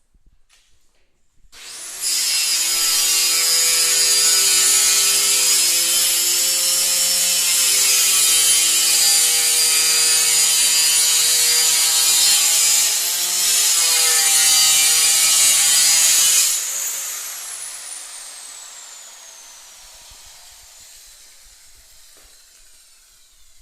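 Electric power tool running at full speed for about fifteen seconds, with a brief dip in speed partway through. It is then switched off and winds down with a long falling whine.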